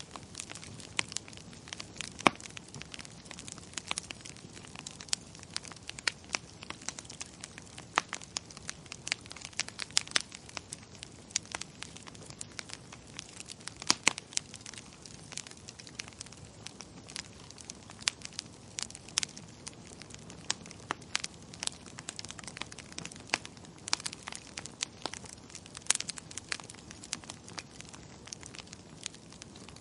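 Fire crackling in a fireplace: irregular sharp pops and snaps, several a second, over a soft low hiss, with a few louder snaps standing out.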